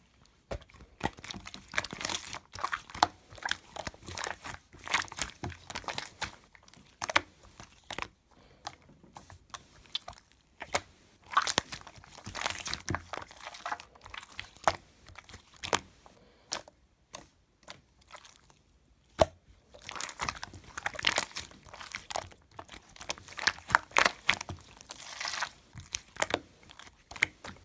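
Slime being kneaded and pressed by hand, giving spells of crackling, crunchy clicks and pops with quieter pauses between.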